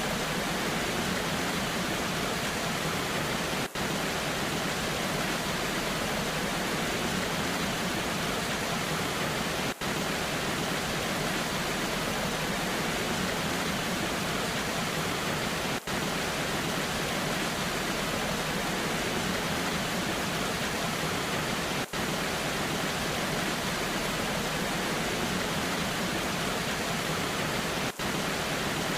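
Waterfall rushing steadily, with rain falling, an even unbroken wash of water noise. It drops out for an instant about every six seconds.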